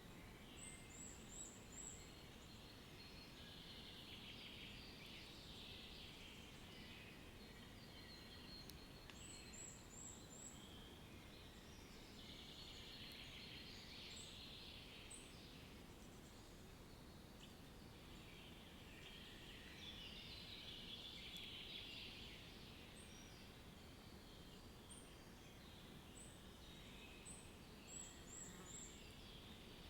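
Birds singing faintly over a steady low background noise. Patches of busy chirping come and go every few seconds. A very high, thin run of four or five quick notes recurs near the start, about ten seconds in and near the end.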